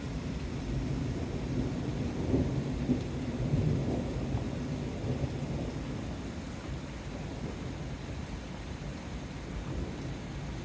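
Thunder rumbling low during a thunderstorm, swelling for a couple of seconds about two seconds in and then fading.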